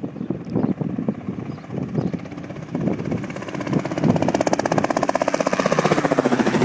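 Helicopter rotor chop, a fast even pulsing that comes in a few seconds in and grows louder toward the end, over uneven gusts of wind on the microphone.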